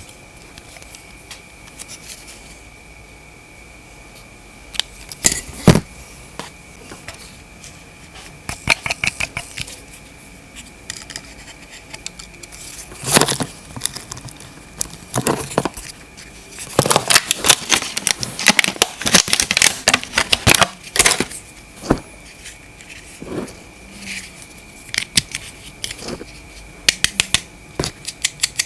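Irregular clicks, taps and rattles of small objects being handled, densest in a cluster a little past the middle, over a faint steady high-pitched hum.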